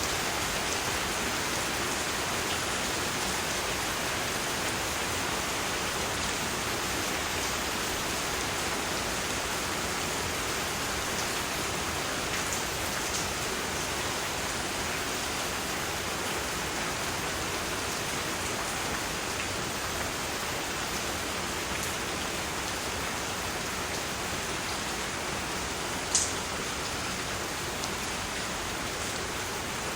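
Steady rain falling, an even continuous patter of drops used as white noise, with one sharper drop sound near the end.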